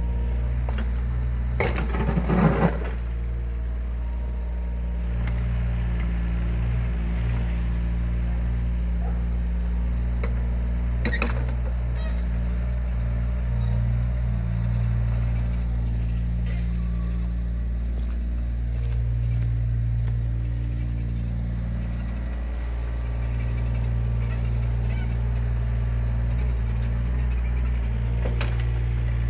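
Yanmar ViO17 mini excavator's three-cylinder diesel engine running steadily, with a loud clatter of metal about two seconds in and a shorter knock around eleven seconds.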